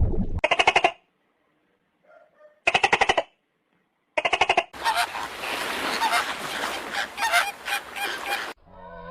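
An animal calling: three short bursts of rapid, pulsed calls with silent gaps between them, then a longer, noisier stretch of calling that stops suddenly near the end.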